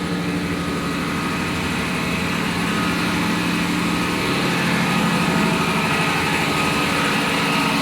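Steady, loud running of diesel machinery in a tug's engine room: a continuous engine drone with many layered tones, growing slightly louder over the seconds.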